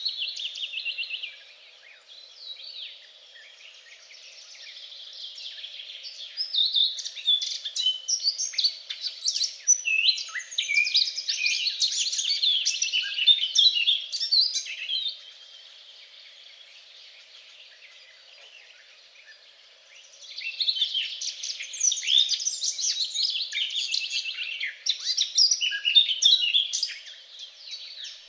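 Songbirds singing long, rapid, varied songs. The song comes in two long bouts, each around eight to ten seconds, with a short phrase at the very start and a quieter stretch of several seconds between the bouts. A faint, steady low hum lies underneath.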